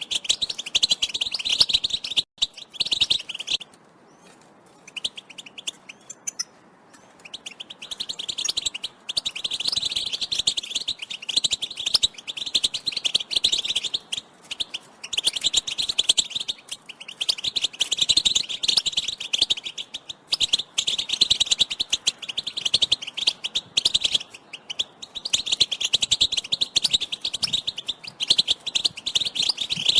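European goldfinch twittering chatter, a fast run of high chirps in long spells broken by short pauses, with a longer break about four seconds in. It is the goldfinch's mating-readiness call.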